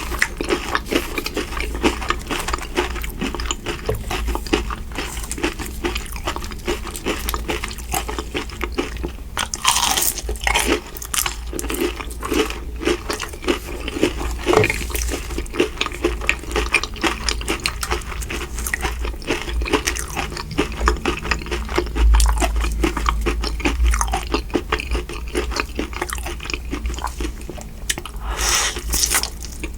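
Close-miked eating: steady chewing with many small wet clicks and crunchy bites, as of fried shrimp and Mi Goreng noodles. A few louder, sharper bites stand out partway through and near the end.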